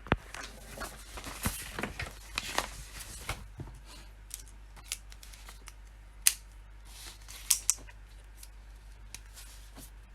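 Typing on a computer keyboard: a quick run of keystrokes for the first few seconds, then scattered single clicks.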